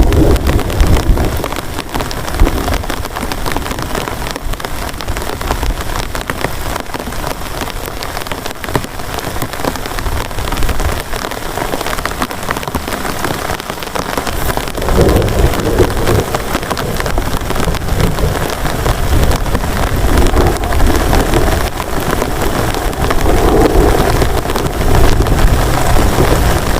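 Heavy rain falling steadily, a dense hiss of countless drop hits, with low rumbles of thunder swelling about halfway through and again near the end.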